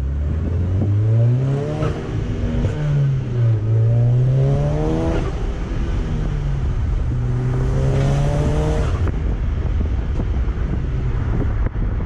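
Stage 2 tuned 2013 VW Golf R's turbocharged 2.0-litre four-cylinder, fitted with a Forge diverter valve, heard from inside the cabin under hard acceleration. The engine note climbs, falls back at each gear change and climbs again, with a rushing hiss building on the last pull, then cuts off about nine seconds in as the throttle closes.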